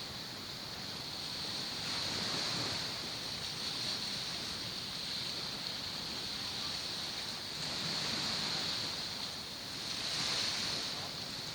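Surf washing onto the shore, swelling and easing every few seconds, with a steady high-pitched hiss over it.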